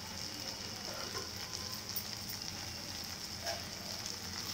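Capsicum, onion and tomato curry sizzling steadily in oil in an uncovered kadai on low heat, nearly cooked, with a few faint crackles.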